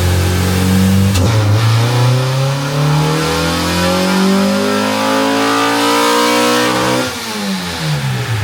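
Honda Civic's swapped K-series four-cylinder engine under load on a chassis dyno: held steady for about a second, then pulled up through the revs for about six seconds and let off, the revs falling away quickly near the end.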